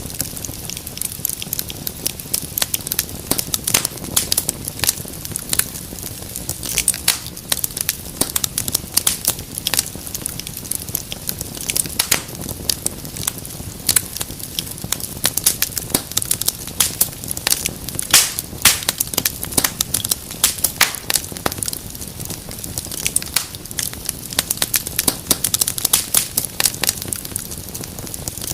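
Wood fire crackling in a fireplace: many irregular pops and snaps over a steady low hiss of burning.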